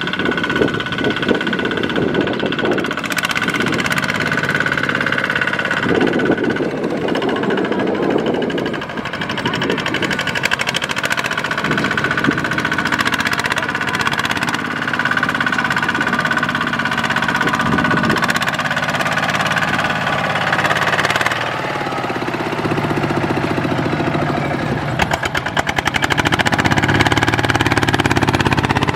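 Kubota RT155/ZT155 single-cylinder diesel engines of two-wheel walking tractors running with a fast, steady knocking chug, with a steady high whine over it, as the tractors haul rice through deep mud.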